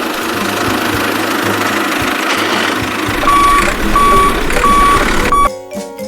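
Reversing beeper on a truck giving four evenly spaced beeps, over a steady engine-like running noise. The sound cuts off abruptly just before the end.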